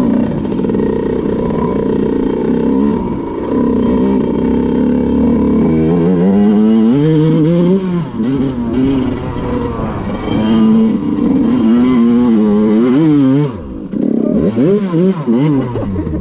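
Two-stroke dirt bike engine revving hard under load on a steep hill climb, its pitch rising and falling over and over as the throttle is worked. It drops out briefly near the end, then picks up again.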